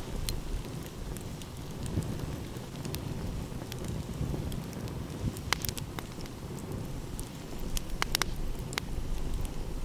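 Wood fire crackling, with scattered sharp pops that bunch together about halfway through and again near the end, over a steady low rumble of wind and surf.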